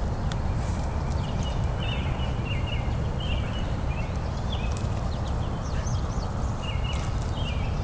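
Steady low rumble, like wind on the microphone, with short high chirping calls about once a second and a few light clicks.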